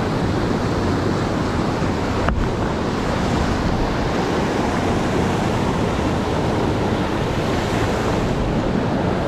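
Fast-flowing mountain river rushing over rocks: a steady, unbroken noise of water.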